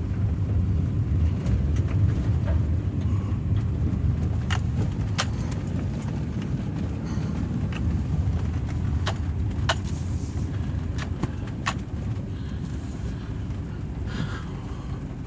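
Pickup truck driving slowly over wet sand and mud, heard from inside the cab: a steady low rumble of engine and tyres, with scattered light clicks and rattles.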